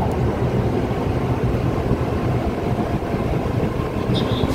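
SRT Red Line electric commuter train standing at the platform, giving off a steady low rumble and hum.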